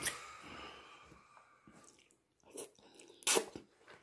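Someone chewing crab meat close to the microphone, with a few short, sharp mouth clicks and smacks, the loudest about three seconds in.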